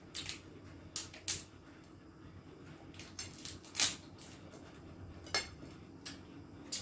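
Cutlery clinking and scraping against a plate during a meal: a string of short, sharp clicks at irregular intervals, the loudest about four seconds in.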